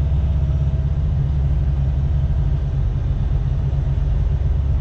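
International LT semi truck's diesel engine running steadily with a low, even rumble.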